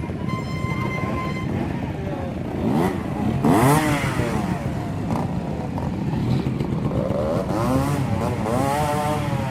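Trial motorcycle engine revving in short throttle blips, its pitch rising and falling, loudest about three and a half seconds in and again in a run of blips near the end, over a steady low rumble.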